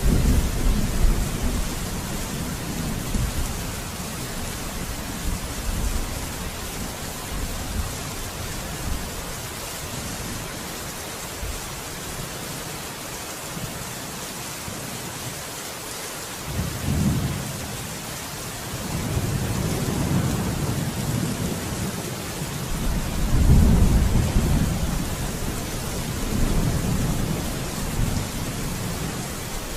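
Steady rain with rolling thunder. A low rumble fades early on; a new roll of thunder starts a little past halfway, builds, and is loudest about three quarters of the way through, followed by another, lighter rumble.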